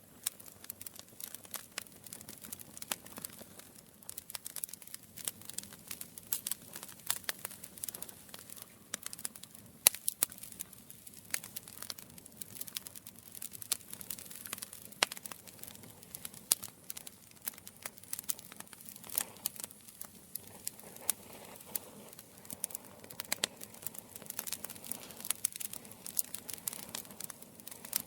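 Campfire burning: wood crackling in dense, irregular sharp snaps over a soft hiss, with a few louder pops standing out.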